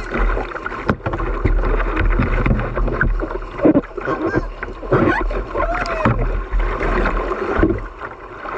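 Whitewater rapids rushing and splashing around a river boat, with many short splashes over a steady wash of water and a low rumble of wind on the microphone.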